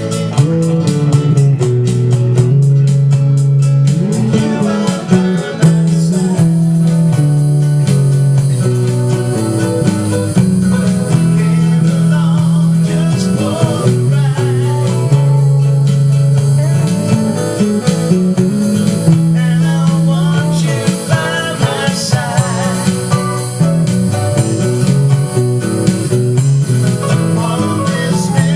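Music: a bass guitar played along to a recorded track, its line stepping between low notes under guitar and other instruments, with fast even ticks in the first few seconds.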